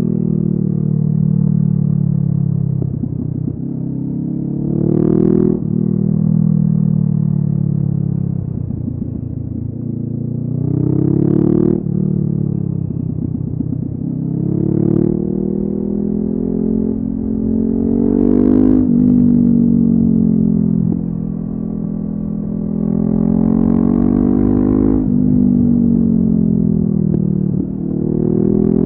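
Honda CB500F parallel-twin engine through a LeoVince aftermarket exhaust, ridden on the road. The revs climb and then drop sharply several times as it shifts up through the gears, with stretches where the pitch falls as the throttle closes.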